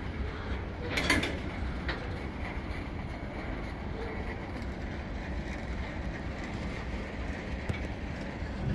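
A train running: a steady low rumble with a sharp clank about a second in.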